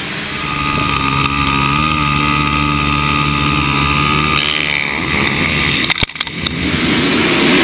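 Motocross bike engine revving hard and held high, its pitch climbing slightly, then wavering and falling away about four and a half seconds in. A few sharp clicks follow about six seconds in, then a rushing noise.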